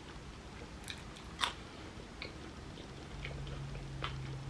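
A person chewing a mouthful of food close to the microphone: a few short, crisp crunches spread out, the sharpest about a second and a half in.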